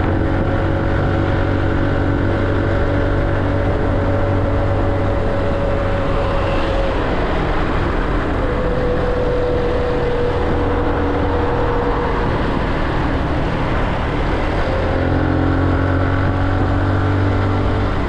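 Motorcycle engine running steadily at riding speed over a constant rush of wind noise, its pitch stepping down a little about halfway through and again near the end.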